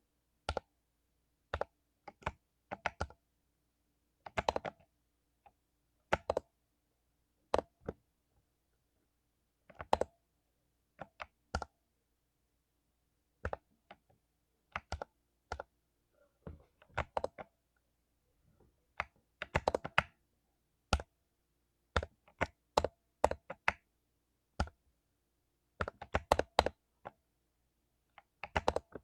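Mechanical keyboard with lubed Cherry MX Silver linear switches being typed on slowly and unevenly: single keystrokes and short runs of clacks, with pauses of up to a couple of seconds between them.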